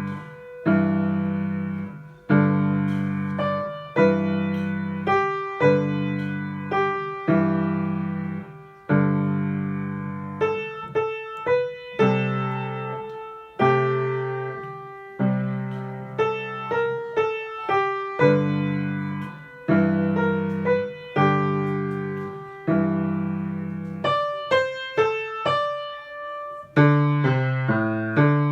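Piano playing a slow beginner blues piece: a left-hand pattern of fifths and sixths struck about every one and a half to two seconds, under a right-hand melody.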